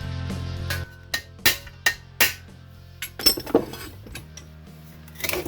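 Background music that stops about a second in, followed by a string of sharp metallic clinks and taps, metal striking metal at irregular intervals, from sheet-steel panel work.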